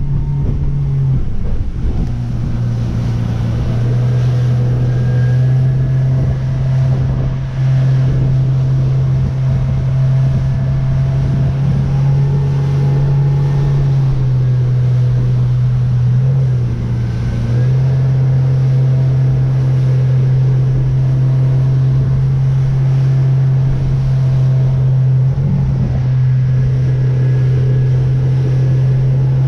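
A Merry Fisher motorboat's engine running with a loud, steady drone. Its pitch dips and recovers slightly a few times, with wind and water noise over it.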